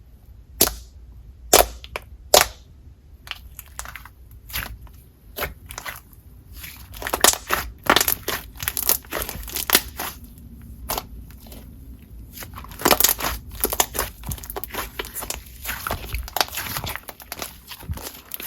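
Hands pressing, stretching and poking a clicky cloud cream slime, giving sharp irregular clicks and crackles, sparse at first and coming thick and fast later on.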